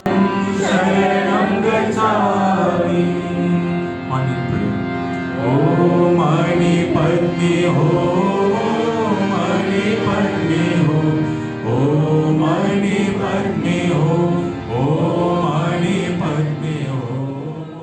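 Devotional prayer chanting: voices singing universal prayers at the close of a bhajan service, in sustained melodic phrases with short breaks between them.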